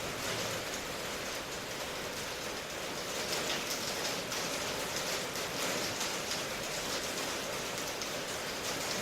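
Steady rain, an even hiss with fine patter of drops on a surface.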